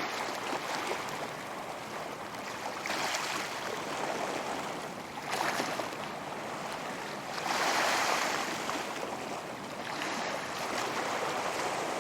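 Ocean surf: waves breaking and washing in as a continuous rush of water that swells in several surges, the strongest about eight seconds in.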